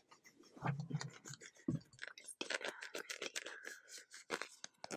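Close-miked ASMR scratching with rapid clicks, over a faint whisper, and two low thumps on the microphone about a second in.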